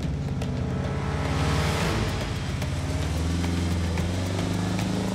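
Off-road vehicle engine revving hard under load, heard from inside the cab, swelling about a second in and then holding steady, with light rattling clicks.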